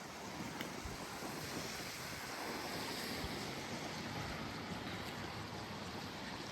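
Small waves lapping and washing on a sandy shore, a steady hiss that swells gently, with a light breeze on the microphone.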